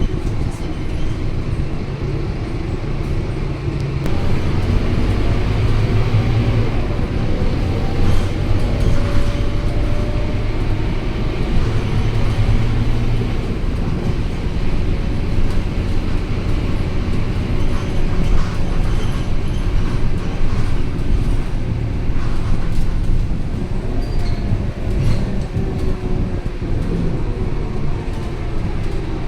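Scania K230UB single-deck city bus on the move: a steady diesel engine and drivetrain rumble whose pitch rises and falls as the bus accelerates and slows, most clearly near the start and again near the end.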